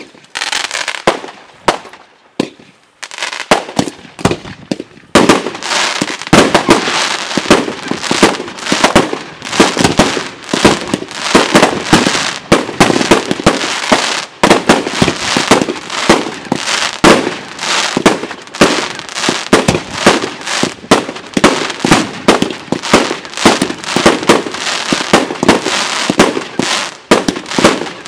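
Aerial fireworks display: a few scattered launches and bangs, then from about five seconds in a dense, rapid barrage of bangs from many shells going off in close succession.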